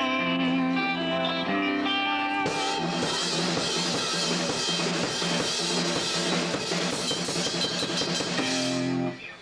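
Rock music: held guitar chords, then a full drum kit with crashing cymbals comes in about two and a half seconds in and plays on with the guitars, cutting off suddenly near the end.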